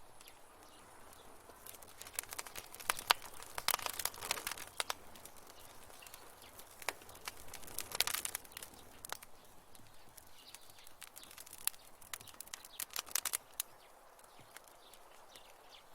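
Wood fire crackling in a fireplace: irregular sharp pops and snaps over a soft hiss, coming in quick clusters a few seconds apart.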